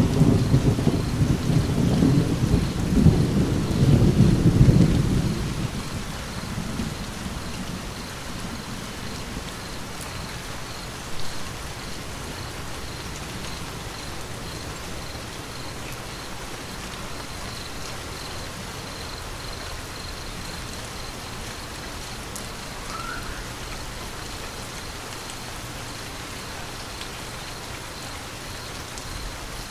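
Steady rain with a peal of thunder at the start that rumbles for about six seconds and fades out, leaving the rain alone.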